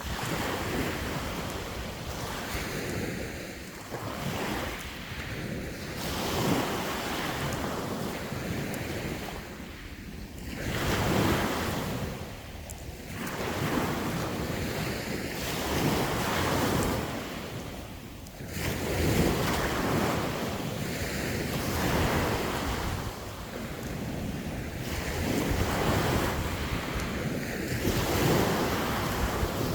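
Sea waves breaking and washing onto the shore, swelling and receding every few seconds, with wind buffeting the microphone.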